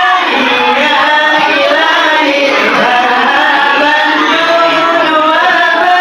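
Voices singing a sholawat, an Islamic devotional song in praise of the Prophet, with long held notes that bend and glide in pitch.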